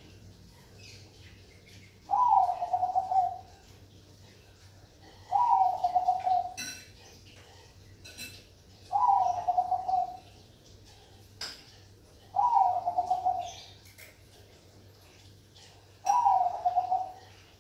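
Zebra dove (perkutut Bangkok) cooing, five song phrases about three and a half seconds apart, each a quick stutter of notes running into a longer held coo.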